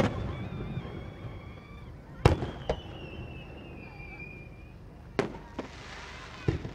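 Aerial firework shells going off: sharp bangs in pairs about two seconds in and again about five seconds in, with one more near the end. Between them, thin whistling tones drift slowly down in pitch, and a brief hiss comes just before the last bang.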